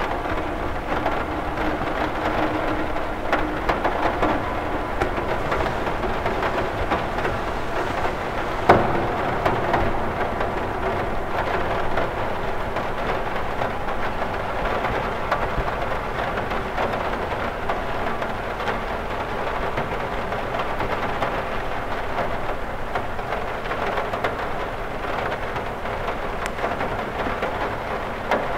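Steady rain falling on a cathedral window, a constant hiss with many small drop taps, and one louder sharp tap about nine seconds in.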